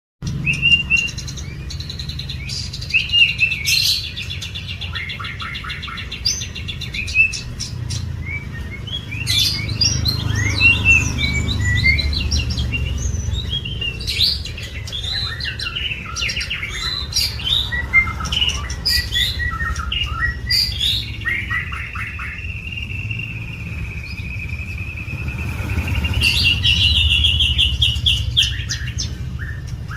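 White-rumped shama (murai batu) singing a varied song of clear whistles, quick trills and rapid chattering phrases. Past the middle it holds one long steady whistle for several seconds. A low steady hum runs underneath.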